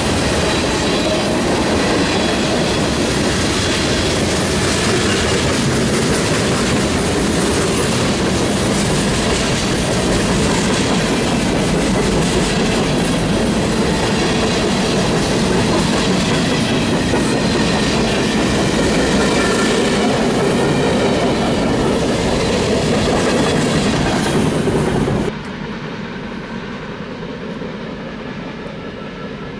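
Freight cars of a BNSF manifest train rolling past close by, a steady loud rumble with wheels clacking over the rail. About 25 seconds in the sound drops suddenly to a much quieter background rumble.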